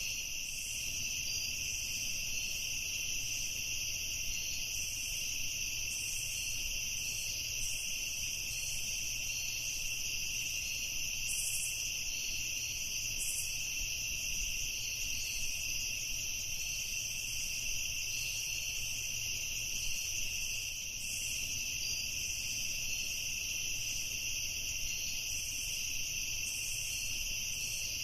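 Evening chorus of crickets trilling without a break, a steady high-pitched drone.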